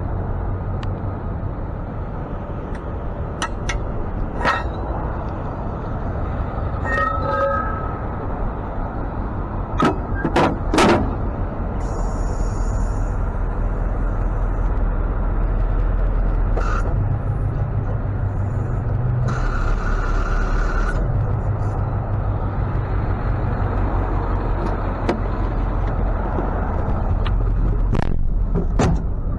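Tow truck's engine running steadily, with occasional sharp metallic clanks and knocks.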